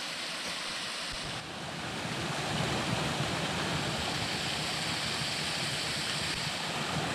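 Small waterfall on a mountain stream, with a steady rush of falling and splashing water that gets a little louder about two seconds in.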